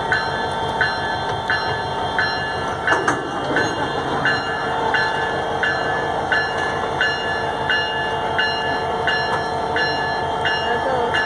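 A train running, with a steady hum and a regular short click-tone repeating about one and a half times a second.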